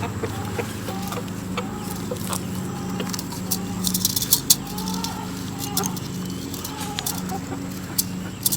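Chickens clucking, with scattered sharp clicks and knocks over a steady low hum.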